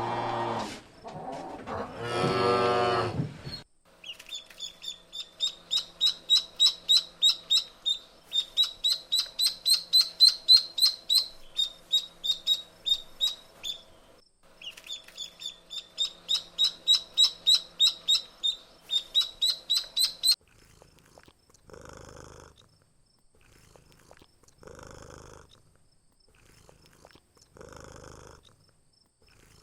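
A cow mooing, ending a few seconds in. Then a bird chirping rapidly and high, about four notes a second, broken by a short pause in the middle. Near the end, low rasping pulses come about every three seconds.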